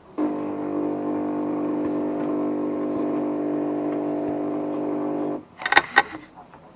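De'Longhi ESAM1000SJ espresso machine running a steady hum for about five seconds, typical of its vibration pump during a brew, then cutting off suddenly, followed by two short sharp clacks.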